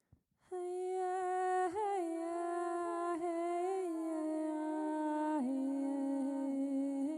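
A sustained droning note sets in about half a second in and holds, its pitch stepping slightly lower a few times.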